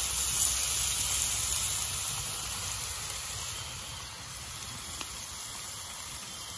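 Pork chops sizzling on a flat-top skillet over a campfire, with sliced mushrooms frying in a pan beside them; a steady hissing sizzle that eases off somewhat about halfway through.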